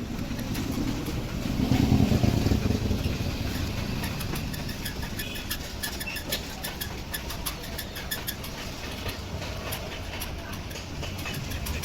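Small petrol engine of a crop-spray machine running steadily at idle, briefly getting louder about two seconds in, with sharp ticks heard throughout.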